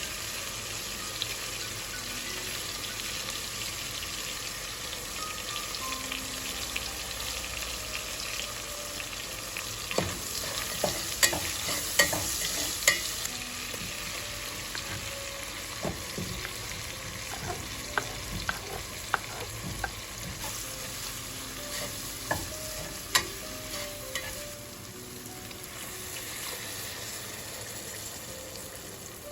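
Food frying and sizzling steadily in a pan while a utensil stirs it, with sharp clicks and taps of the utensil against the pan, the loudest of them about midway through.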